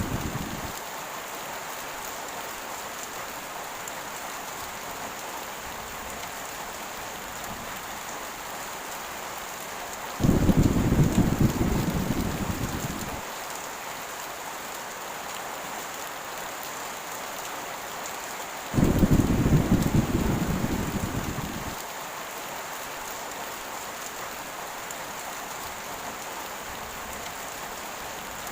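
Heavy rain falling steadily, with two low rolls of thunder, about ten and nineteen seconds in, each starting suddenly and dying away over about three seconds.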